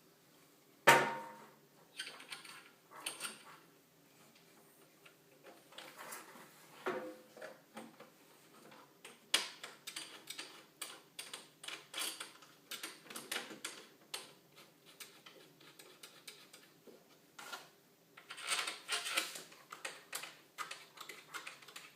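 Irregular clicks, taps and rattles of a metal detector's parts being handled and fitted together, with a sharp knock about a second in.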